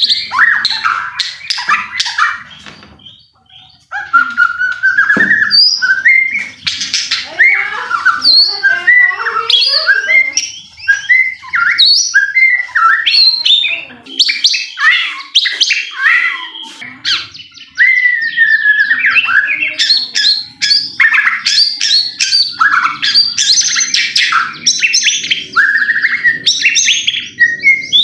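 White-rumped shama (murai batu) singing loudly and continuously: varied whistled phrases and sweeping notes mixed with rapid harsh rattling clicks, with a brief lull about three seconds in.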